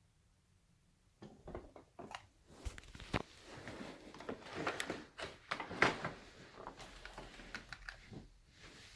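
A run of sharp clicks and knocks with rustling between them, as of objects being handled, starting about a second in.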